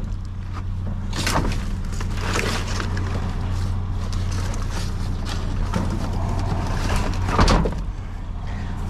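A vehicle engine running steadily with a low hum, with a few knocks and rattles on top, the loudest about seven and a half seconds in.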